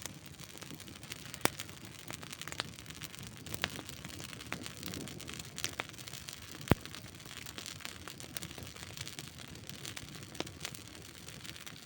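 Wood campfire crackling: a low steady hiss with scattered sharp pops and snaps, the loudest about two-thirds of the way through.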